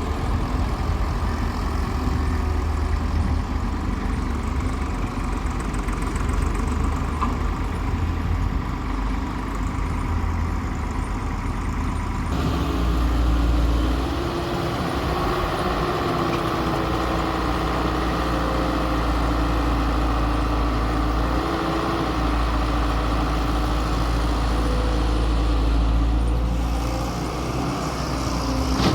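Heavy diesel machinery running steadily as a Hyundai Robex 1300W wheeled excavator loads mud into a tractor trolley: deep engine rumble with no break. About twelve seconds in the sound changes abruptly, and a steady higher whine rides over the rumble, rising and falling slightly.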